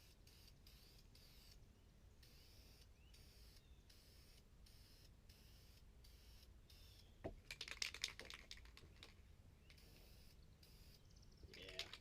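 Near silence, broken about seven seconds in by a low knock and then a second or so of crackly hiss from an aerosol spray-paint can spraying, with another short spray near the end.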